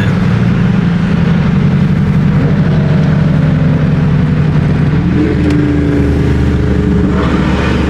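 Car engine running, its pitch stepping up twice, about two and a half and five seconds in.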